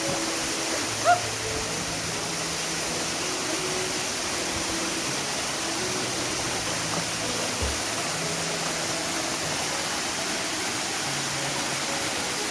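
Waterfall pouring steadily into its pool, a constant rush of water. A short chirp cuts in about a second in.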